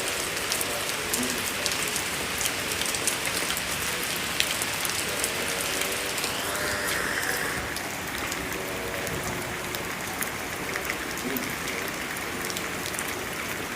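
Steady rain falling, with many sharp drop hits on a hard surface. A faint low tone comes and goes a few times, and there is a brief higher rising sound about six seconds in.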